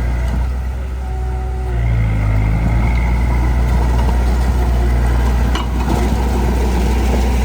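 Heavy diesel engine of earthmoving machinery running with a steady low drone, growing louder about two seconds in.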